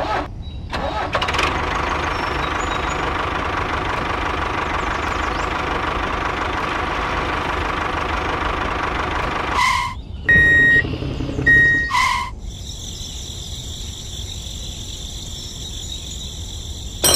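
Small motor of a DIY model tractor running steadily, whirring as it drives its belt pulleys. Around ten to twelve seconds in come two brief louder sounds, then a quieter steady hum.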